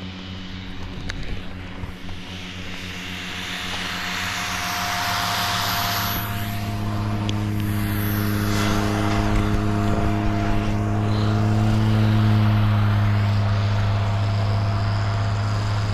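Light propeller aircraft engine running, growing steadily louder over the first twelve seconds or so, then holding.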